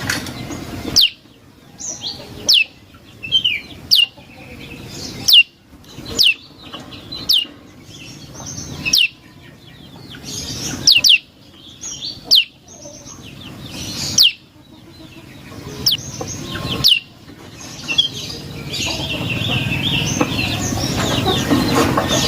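Prenjak lumut singing: sharp, high notes that drop quickly in pitch, given in short clusters about every one to two seconds. Near the end a denser run of chirps builds over a louder background rumble.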